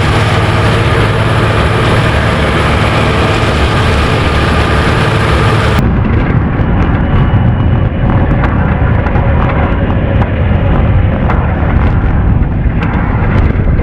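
Tractor engine running loud and steady. About six seconds in the sound cuts abruptly to a rougher rumble full of rapid crackling clicks.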